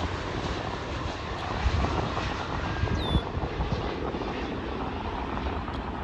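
Jet airliner engines running, a steady low rumble with a couple of louder swells in the middle.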